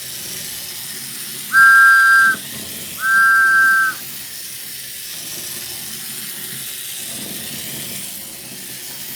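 Tin toy train whistle from a vintage Tootsietoy train set, blown in two short, steady blasts with two close notes sounding together. The second blast is a little longer than the first.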